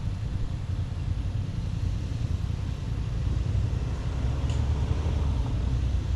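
Steady low vehicle rumble that swells a little in the second half, with a faint brief tick about four and a half seconds in.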